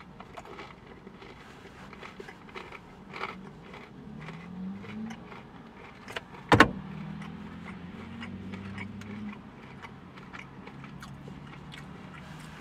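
Quiet chewing of a bite of breaded fried chicken tender, with small mouth clicks, one sharp click about six and a half seconds in, and a faint low hum from about four to nine seconds.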